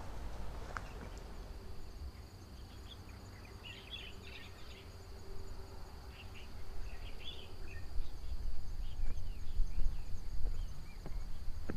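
Hillside ambience: insects droning on one steady high note from about a second in, with scattered bird chirps over it and a low wind rumble on the microphone that swells in the second half.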